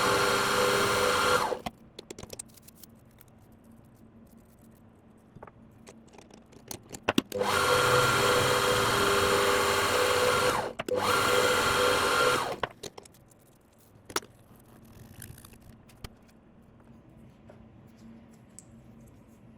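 A small electric power tool motor running with a steady whine in three bursts: once at the start, then twice in the middle with a short break between. Light clicks and handling noises fill the pauses.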